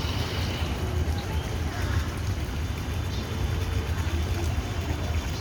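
Steady low rumbling background noise, with faint voices of people in it.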